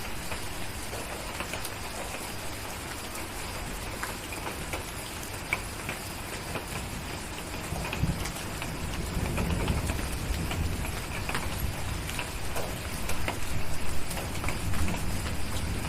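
Steady rain with scattered sharp crackles and ticks from a wood fire. About halfway in, a low rumble of distant thunder swells and grows louder toward the end.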